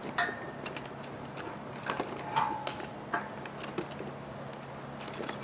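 Scattered light clicks and knocks, irregular and a second or so apart, of metal power-rack parts being handled, over a faint steady low hum.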